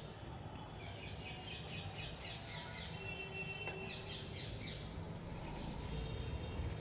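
Small birds chirping in the background: a quick run of short, high chirps lasting a few seconds, over a low steady hum of room noise.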